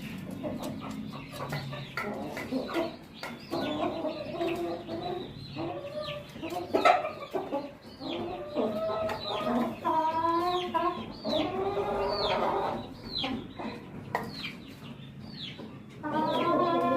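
Chickens clucking: a steady string of short calls, with a few longer, drawn-out calls mixed in.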